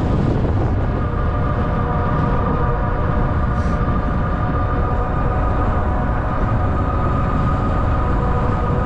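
Electric e-bike motor whining at a steady pitch while riding, over a heavy low rumble of wind on the microphone and tyre noise.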